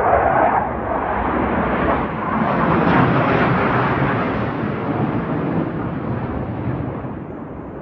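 Airplane flying overhead: a loud rushing engine noise that builds to a peak about three seconds in, then slowly fades as it passes.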